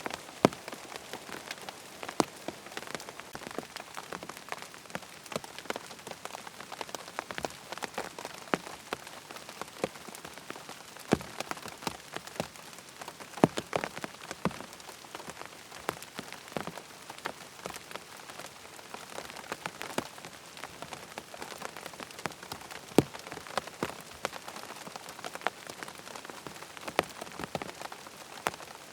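Rain falling on a tent, a steady patter with many separate heavier drops striking the fabric at irregular moments.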